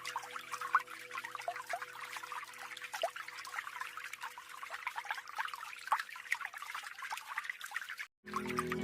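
Small natural waterfall on a mountain stream trickling and splashing steadily, with faint background music fading under it. The sound cuts out briefly about eight seconds in, and louder music starts just before the end.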